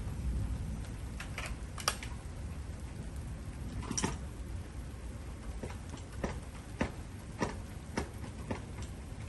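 Scattered large raindrops striking nearby surfaces: about a dozen sharp, irregular ticks at the start of a thunderstorm's downpour, over a steady low rumble.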